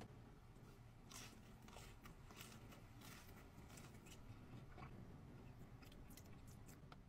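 Faint chewing and mouth noises of a person eating fried chicken tenders, a scatter of soft crunches and smacks over a quiet low hum.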